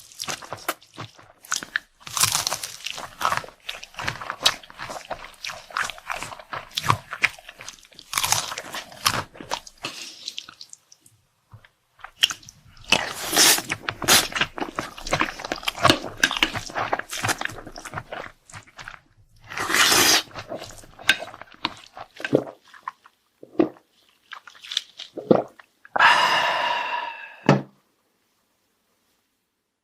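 Close-miked chewing and crunching from a meal of Korean black-bean noodles, seafood noodles and pan-fried dumplings, in bursts of crisp bites with short pauses between. Near the end there is a brief pitched sound, then the sound cuts out abruptly.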